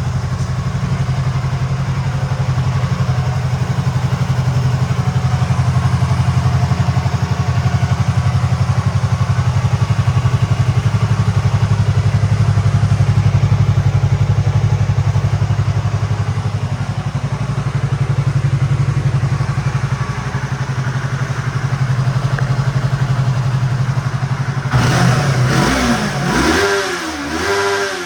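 Yamaha YZF-R3's 321 cc parallel-twin engine idling steadily, then revved in a few quick throttle blips near the end, its pitch rising and falling with each one.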